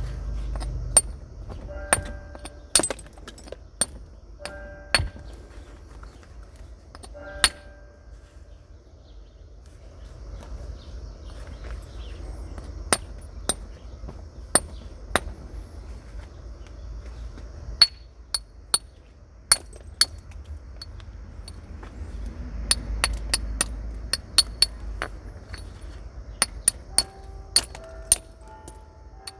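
Flint being knapped with natural tools: sharp, separate strikes on the stone, some in the first few seconds leaving a short ringing tone, and a quicker run of light ticks near the end.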